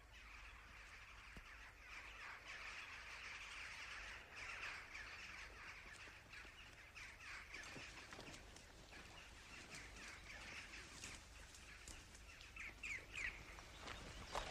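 Faint bird calls and chirping, with three quick chirps close together near the end.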